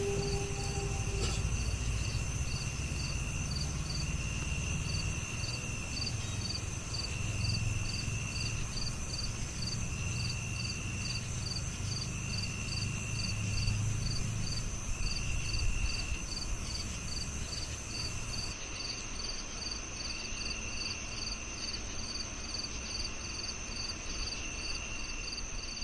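Night insects such as crickets calling in chorus. One keeps up a steady high trill, another chirps evenly about twice a second, and a third trills in phrases of about a second and a half, repeated every couple of seconds, over a low background rumble.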